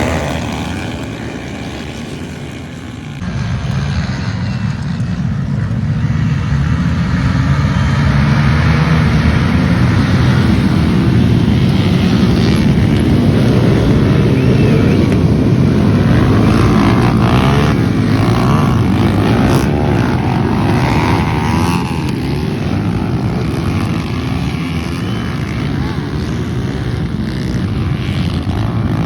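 Motocross dirt bike engines running, the sound easing for the first three seconds and then holding steady and loud.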